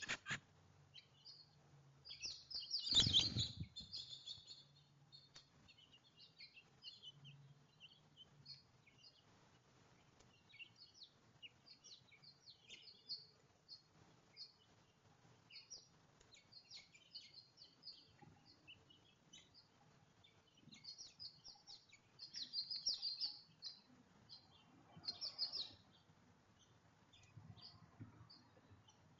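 Small songbirds chirping, many short high chirps with busier flurries about three seconds in and twice more near the end. A thump about three seconds in is the loudest sound.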